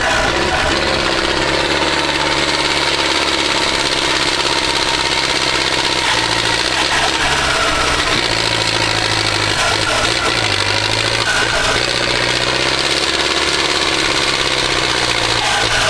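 Tractor diesel engine running loud and steady, its speed rising and falling several times.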